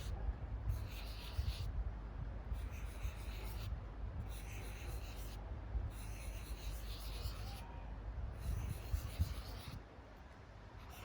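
Felt-tip marker strokes rubbing across paper, about six strokes each lasting a second or so with short pauses between, over a steady low rumble.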